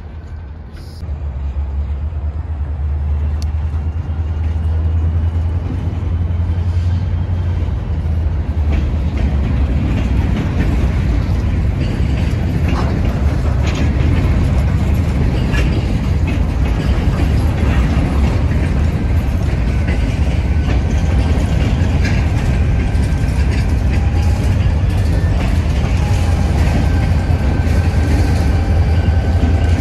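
Freight train rolling past: a steady low rumble of boxcars and covered hoppers on the rails, with scattered wheel clicks and thin high squeals, getting louder in the first few seconds as the cars and then a CSX diesel locomotive come by.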